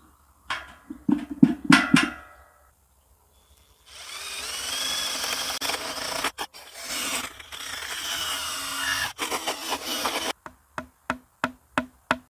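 Tool work on material: a few sharp knocks, then about six seconds of continuous cutting or drilling noise, then a run of quick strokes about four a second near the end.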